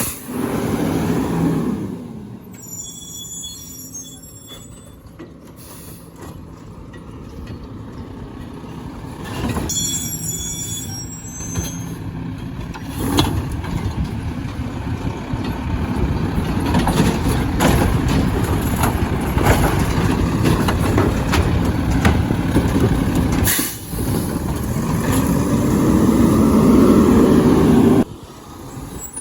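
Garbage truck engine running and revving up and down, with short hisses and squeals of the truck's air or hydraulic system. The revving is loudest at the start and builds again to a rising rev near the end, where it cuts off.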